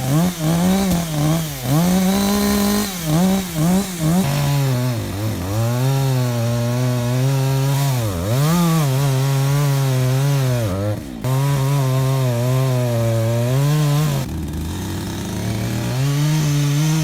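Two-stroke chainsaw revving in quick blips, then held at a lower, sagging pitch as it cuts under load. Near the end it runs at a steadier, higher pitch again.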